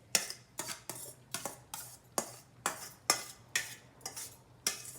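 Two spoons clanking and scraping against the pot while tossing cooked chow mein noodles with the minced chicken and vegetables, in repeated sharp clanks, about two or three a second.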